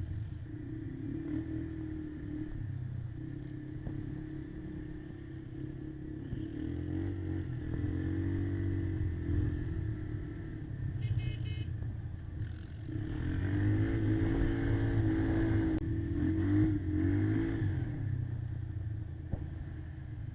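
Kymco Maxxer 300 quad's engine running under throttle while riding, repeatedly revving up and easing off, with its longest and loudest rev a little past the middle.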